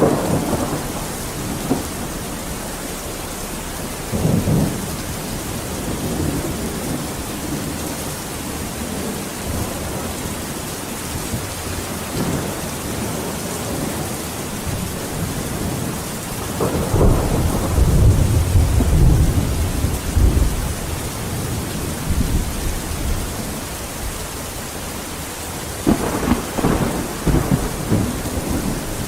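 Steady rain with thunder: an even hiss of rainfall, with a short rumble about four seconds in, a long deep roll of thunder past the middle, and crackling thunder near the end.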